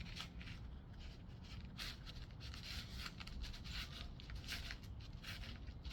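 Loose birdseed rustling and scratching on a plate as a peanut-butter-coated cardboard tube is rolled through it: faint, irregular rustles about twice a second.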